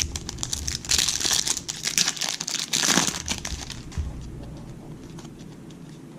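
Foil wrapper of a trading-card pack being torn open and crinkled, a dense crackling for a few seconds, followed by faint clicks of cards being handled.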